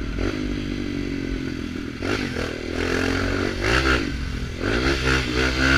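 Small Kawasaki Ninja motorcycle with a straight-pipe sport exhaust, running steadily at first. From about two seconds in, the revs climb and drop several times as it accelerates.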